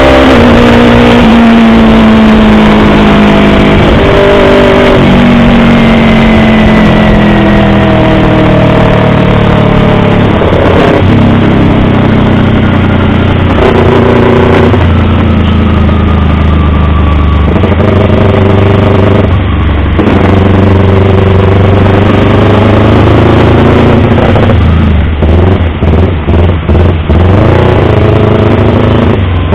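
Yamaha YZF-R25's parallel-twin engine running loud, its pitch jumping up suddenly several times and sliding down slowly over a few seconds in between. Near the end the sound drops out briefly several times in quick succession.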